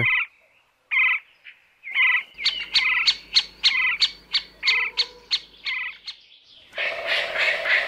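Pileated woodpecker calling: short, loud calls repeated roughly once a second. Through the middle there is a run of sharp taps, about two a second. Near the end a louder, denser mix of sound takes over.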